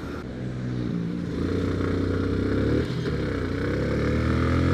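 Yamaha FZ16's single-cylinder engine accelerating, its note rising. It dips briefly about three seconds in, as on an upshift, then climbs again.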